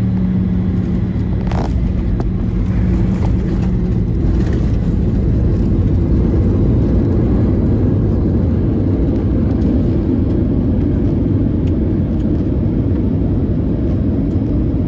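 Cabin noise of a Boeing 737-900 landing: a loud, steady low rumble of its CFM56 engines and airflow, with a steady hum that fades out about four seconds in.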